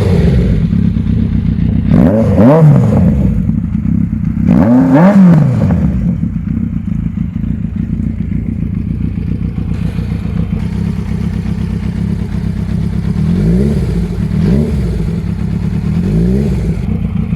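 Yamaha XJR1300's air-cooled inline-four engine idling through a Bodis aftermarket exhaust, revved hard twice in the first six seconds and then blipped three times more lightly near the end.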